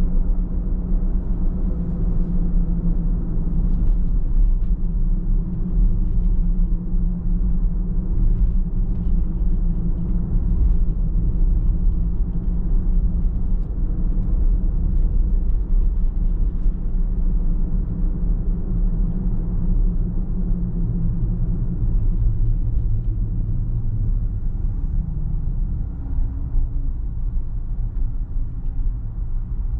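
Car on the move: steady low rumble of engine and tyres on the road. A low hum under it drops in pitch about two-thirds of the way through.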